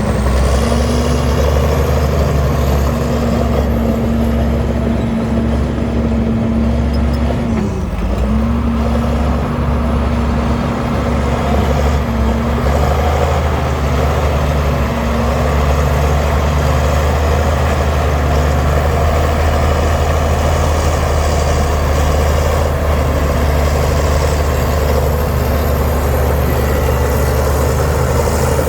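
Heavy diesel engine of earthmoving equipment running steadily, with a brief drop in pitch about eight seconds in.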